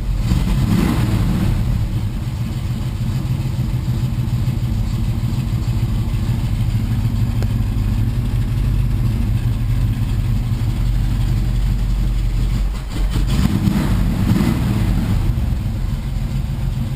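1977 Chevy Camaro's 350 small-block V8 running cold just after a start, revved briefly about a second in and again around thirteen seconds in. The engine is cold-blooded, struggling to keep running until warm, and the owner says it needs a new electric choke.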